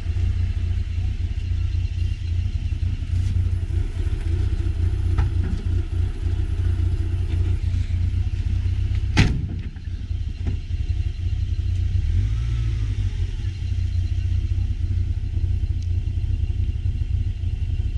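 Vehicle driving over a rough bush track, with a steady low rumble and light rattles. There is a single sharp knock about nine seconds in.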